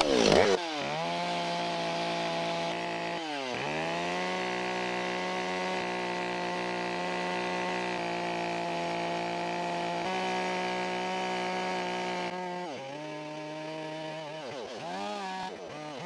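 Chainsaw running at steady high throttle while carving wood, its engine pitch dipping sharply and recovering several times: about half a second in, after about three seconds, and repeatedly near the end.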